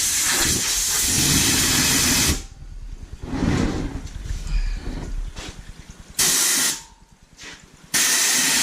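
Loud hissing of gas rushing out while a truck tire's bead is being seated: one long blast that cuts off about two seconds in, then two shorter blasts about six and eight seconds in.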